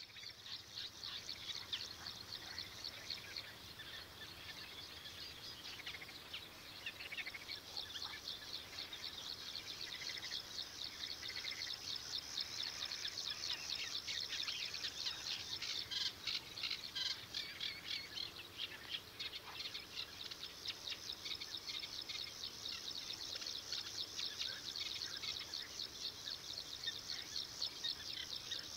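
Birds chirping: a dense, continuous chorus of rapid high chirps, with a few softer, lower calls now and then.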